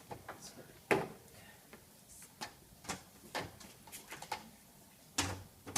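Scattered light clicks and knocks at an irregular pace, with a sharper knock about a second in and another near the end.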